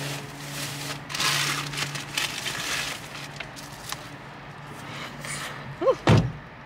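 A person chewing and biting into pizza crust close to the microphone, with crackly rustling. Near the end comes a brief hummed sound and then a thump.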